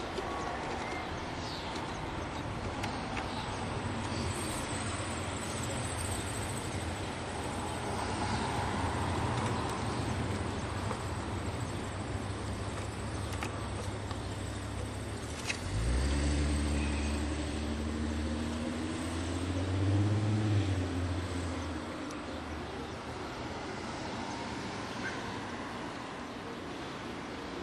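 Steady outdoor background noise with a low hum. About sixteen seconds in, a motor vehicle's engine comes in suddenly and loud, rises in pitch for several seconds, then drops away about six seconds later.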